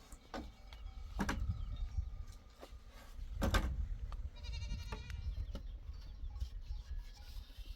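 A bleat from sheep or goats about halfway through, over a low steady rumble, with a few sharp knocks before it.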